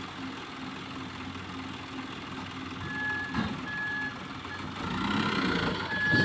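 Truck engine running while a reversing alarm beeps, a high steady-pitched beep repeated several times from about halfway in. The engine gets louder near the end.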